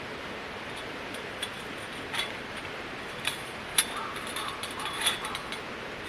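A handful of light, sharp clicks and clinks, spaced irregularly, over a steady background hiss.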